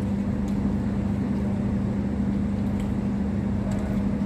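Steady low machine hum at one unchanging pitch, like a running motor, with a few faint small clicks.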